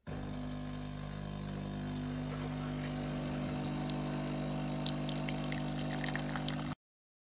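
De'Longhi Eletta Explore coffee machine's pump running steadily as liquid pours into the cup, with light crackling and spattering from about three seconds in; it cuts off abruptly near the end.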